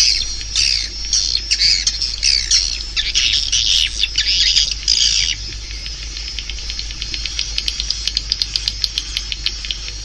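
Swiftlets calling: a run of harsh, gliding chirps, which give way a little past halfway to a fast, even train of sharp clicks.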